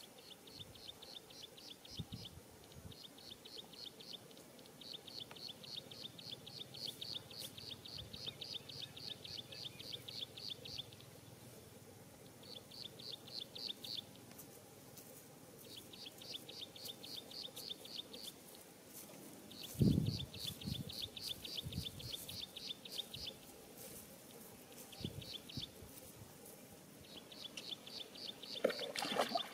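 A bird calling in repeated bouts of rapid, evenly spaced high chirps, each bout lasting a second or several, with short pauses between. A single dull thump about two-thirds of the way through.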